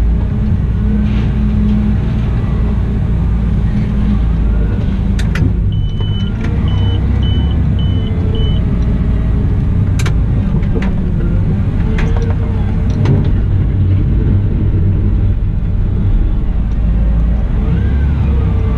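Cat 972M XE wheel loader working: a steady engine drone with a whine that rises and falls in pitch as it works. Several sharp knocks, and a run of five short high beeps a little over a third of the way in.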